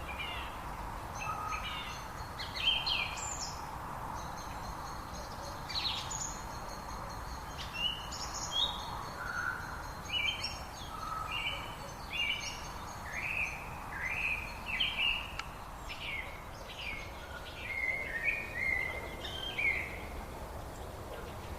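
Several songbirds singing, with many short chirps and quick notes overlapping. There is a steady background hiss beneath.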